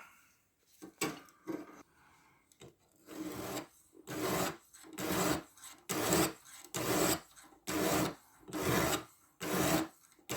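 Diamond stone of a guided knife sharpener stroked along a 14C28N steel blade: a rhythmic scraping rub, about one and a half strokes a second. The strokes start about three seconds in, after a few light knocks.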